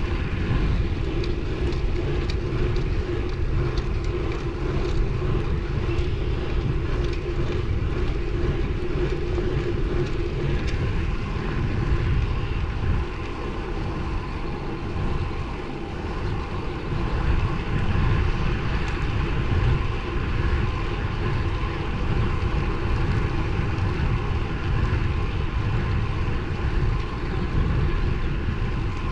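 Wind rushing over the microphone of a moving road bike, a loud, steady low rumble, with a faint steady hum from the bike and road underneath.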